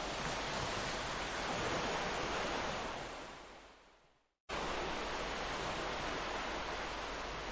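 Ocean waves washing onto a beach, a steady surf hiss. About three seconds in it fades out to silence, then cuts back in abruptly a moment later, an edit splice in the recording.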